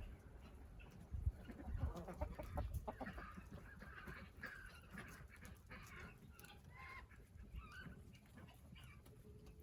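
Chickens clucking, a string of short, soft calls through most of the stretch, with a few low thumps in the first few seconds.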